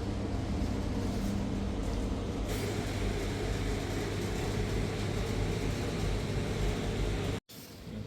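A steady low mechanical hum with a noisy rumble over it, from a running machine. It cuts off abruptly about seven seconds in.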